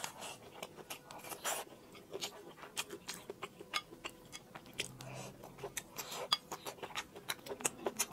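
Close-miked eating: dense, irregular chewing and smacking mouth clicks as a mouthful of rice and toppings is chewed.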